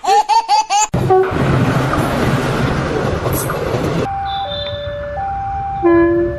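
A quick run of high, squeaky cartoonish chirps, then a few seconds of steady rushing noise, then a two-tone hi-lo siren alternating between a high and a low note about once a second.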